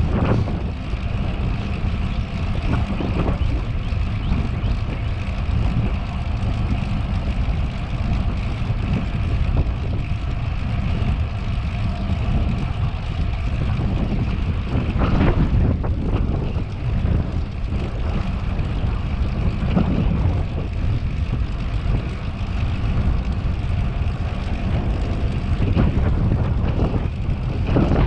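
Wind rushing over the microphone of a camera riding on a moving bicycle: a steady low rumble, with tyre and drivetrain hum over it and a few brief louder gusts.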